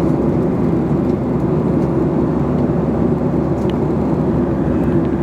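Steady, loud cabin noise of an airliner in cruise: a constant low rumble of engine and airflow heard inside the passenger cabin.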